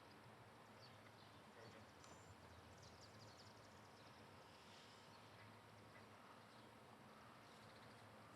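Near silence: faint steady background hiss with a few faint ticks.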